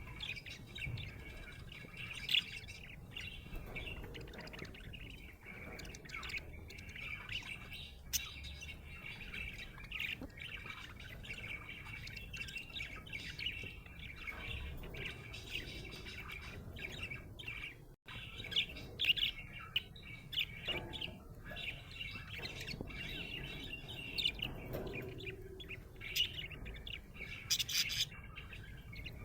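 Budgerigar chirping and warbling in a steady stream of short, rapid chirps, with occasional sharper squawks.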